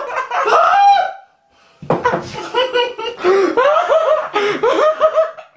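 Laughter: a short burst, a brief pause about a second in, then a longer run of rhythmic laughing.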